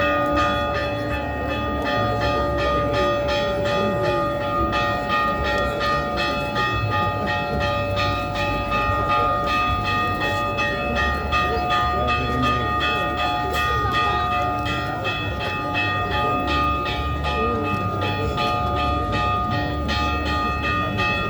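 Bells ringing continuously, many strikes overlapping into a steady wash of ringing tones, with voices and a low rumble underneath.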